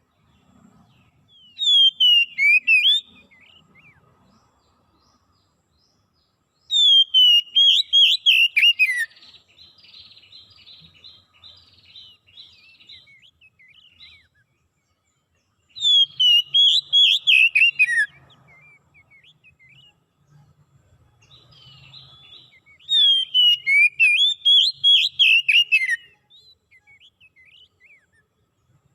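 A songbird singing in four loud phrases of rapid whistled notes, each phrase falling in pitch and lasting about two seconds, with soft twittering between the phrases.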